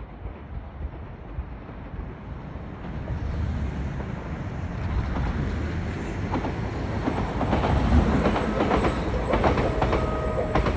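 JR West KuMoYa 443 series electric inspection train passing, growing louder as it approaches. Its wheels clack over the rail joints in the second half, with two short whines near the end.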